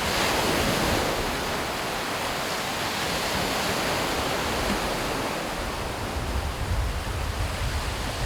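Waves breaking and washing up the beach: a steady surf hiss that swells about a second in. Wind rumbles on the microphone in the second half.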